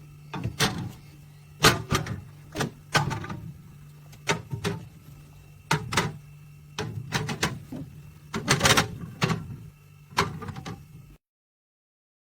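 A series of irregular knocks and clunks, as of something being handled, over a steady low hum. The sound cuts out to dead silence near the end.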